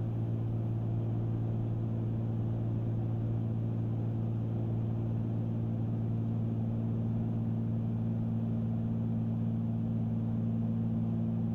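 Steady cabin drone of a Cessna 310Q's two six-cylinder piston engines and propellers in level cruise: an even, low hum with several fixed tones and no change in power.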